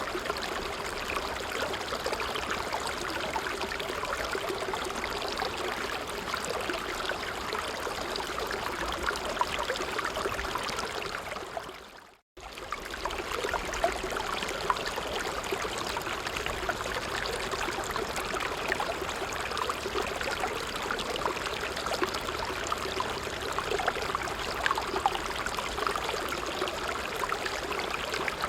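Steady rushing and trickling of a stream. About twelve seconds in it fades out to a moment of silence, then comes straight back at full level.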